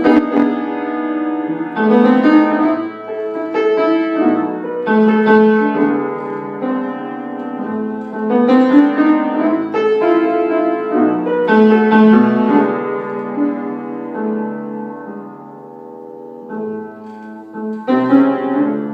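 Solo piano or keyboard instrumental break in a jazzy blues in A minor: chords and melody phrases played between sung verses, quieter for a few seconds near the end.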